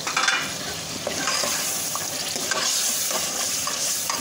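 Boiled chana dal sizzling in hot spiced oil as a steel ladle stirs it into the masala in a metal pot. A steady hiss runs throughout, with short scrapes and clinks of the ladle against the pot every second or so.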